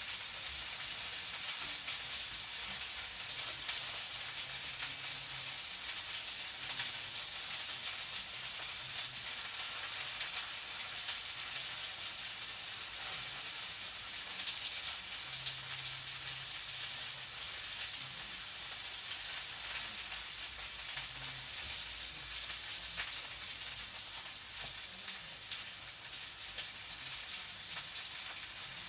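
Food sizzling in a frying pan: a steady hiss with many small crackles and pops throughout.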